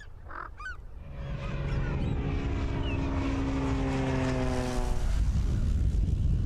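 Propeller aircraft engine passing by, its pitch falling slowly as it goes; the engine tone drops away about five seconds in, leaving a low rumble. A few short bird chirps come just before the engine rises.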